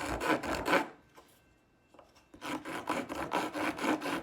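Half-round file rasping back and forth across 2x4 wood in quick, even strokes, shaping and feathering the shoulder of a hive frame part. Two bouts of filing: the first stops just under a second in, the second starts about two and a half seconds in.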